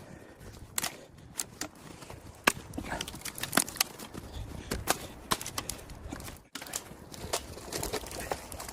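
A run of irregular sharp clicks and knocks, a few a second, over a low rumble. It breaks off for a moment about six and a half seconds in.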